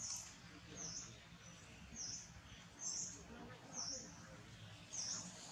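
A small bird calling: a short, high chirp that dips and rises, repeated about once a second over a faint low background hum.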